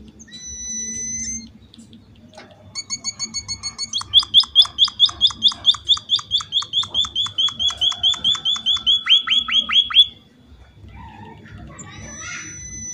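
Emprit (munia-type finch) singing: a brief steady high whistle-like note, then a long, even run of quick repeated chirps, about five a second, that stops abruptly about ten seconds in.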